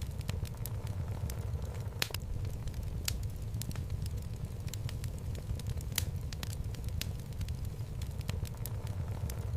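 Wood fire burning in a home fireplace: a steady low rumble of flame with irregular sharp crackles and pops from the logs, a few louder pops standing out.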